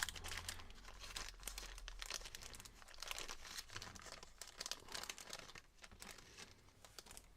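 A bag of miniature parts being handled and opened, crinkling with irregular crackles that thin out near the end.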